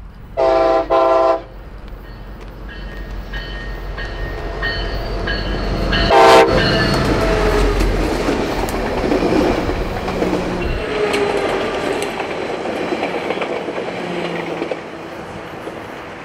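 Passing diesel passenger train led by a Siemens SC-44 Charger locomotive, with an F40 second: two short horn blasts near the start and a third short blast about six seconds in. Engine rumble and wheel noise on the rails build as the train passes close by, then fade as it moves away.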